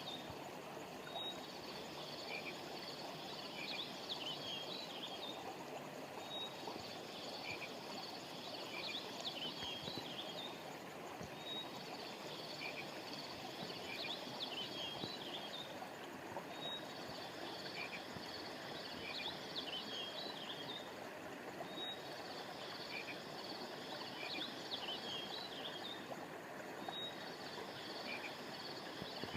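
Steady rushing of a flowing stream with birds chirping high above it. The chirping follows the same pattern of a short note, a trill and scattered chirps, repeating about every five seconds like a looped nature track.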